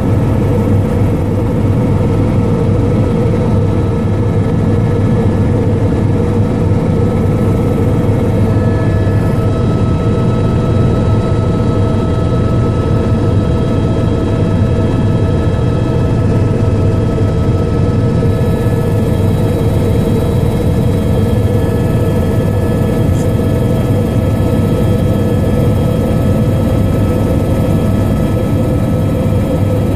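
Helicopter in flight: a steady, loud drone of engine and rotors with constant thin whining tones over it.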